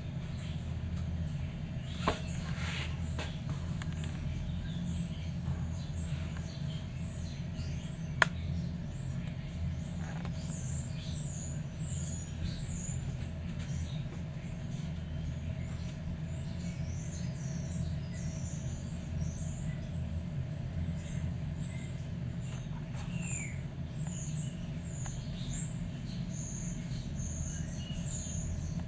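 Many short, high-pitched bird chirps, scattered irregularly, over a steady low hum, with two sharp clicks, one about two seconds in and one about eight seconds in.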